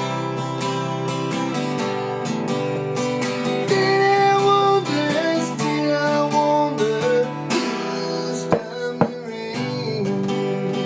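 Acoustic guitar strummed steadily, with a melody line of bending notes over the chords from about four to seven seconds in, and two sharp knocks about nine seconds in.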